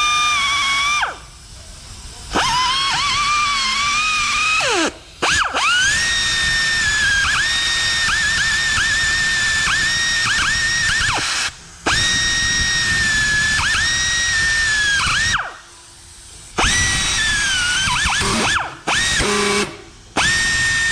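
High-speed rotary grinder spinning a carbide burr, cleaning up a fresh weld on metal. It makes a steady high whine that dips in pitch each time the burr bites in, and it stops and restarts several times.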